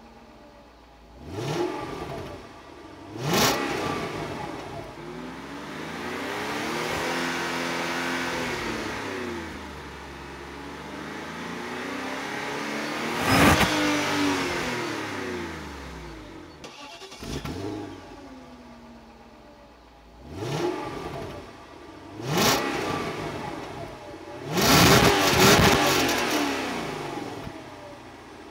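BMW E38 750i V12 revved from idle in short blips and one slow, drawn-out rise and fall, heard at the rear of the car. Then a BMW E38 740i V8 is blipped several times, with a longer rev held near the end.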